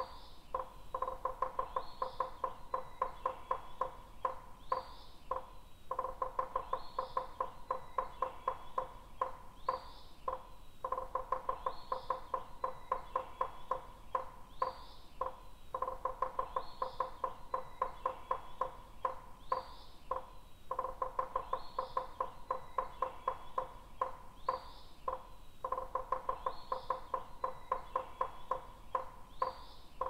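Birds calling in a repeating loop: a rapid pulsing call at a steady pitch runs in stretches of about five seconds with short breaks, with short high chirps about once a second over it.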